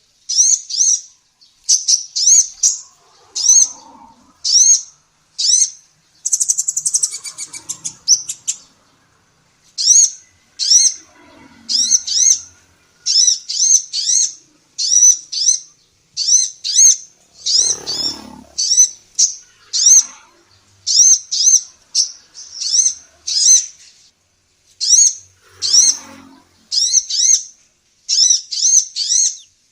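Female kolibri ninja sunbird calling: sharp, high chirps repeated in quick clusters of two or three, with a faster trilling run about six seconds in.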